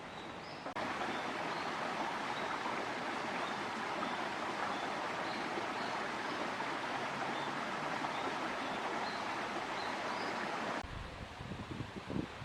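Water rushing steadily in a stream, starting and stopping abruptly, with faint high chirps about once a second above it. Near the end, wind buffets the microphone in low gusts.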